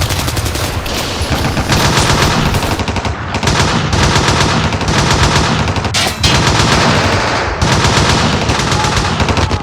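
Battle sound effects of rapid machine-gun fire mixed with single gunshots, a dense, continuous din of shooting with brief lulls.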